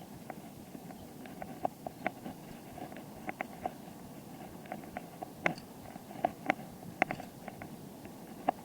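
A bicycle in motion: a steady rumble of tyres on the road, with irregular clicks and rattles from the bike, a few of them sharper knocks in the second half.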